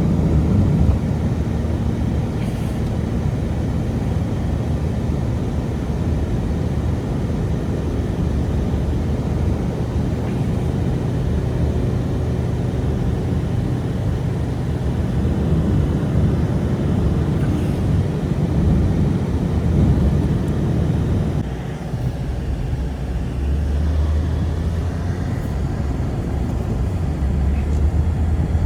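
A steady low rumble, loud and continuous, which dips briefly about 21 seconds in and then carries on lower in pitch.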